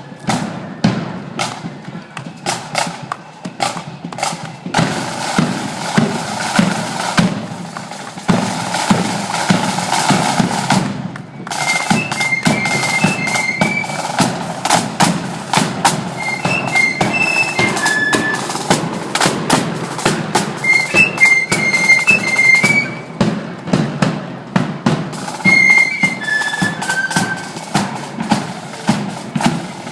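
Marching flute band playing while parading: drums beat steadily in march time throughout, and from about twelve seconds in the flutes join with a high, short-noted melody.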